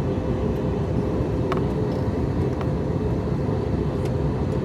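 Steady cabin noise of an Airbus A321neo in flight on approach: an even rumble of airflow and engines with a constant hum. A few faint ticks are heard in the cabin.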